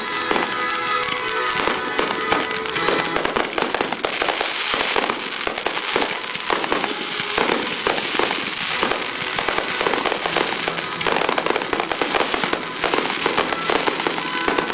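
Fireworks display: comets and aerial shells fire and burst in a dense, continuous string of bangs and crackles, with no letup.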